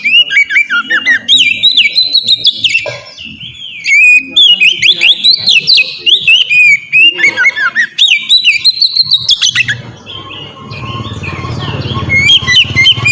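Oriental magpie-robin (kacer) singing loudly: rapid runs of varied whistled and chirped notes. The song breaks off about ten seconds in under a low rumble and starts again near the end.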